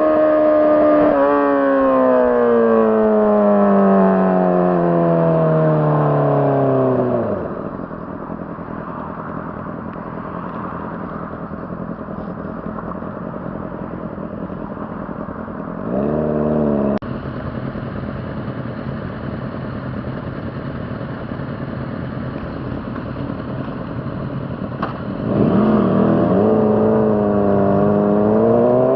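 Honda CBR600RR inline-four engine, its revs winding steadily down over the first seven seconds, then running low and steady. A brief rev comes just past halfway, and the engine revs up again, louder, near the end.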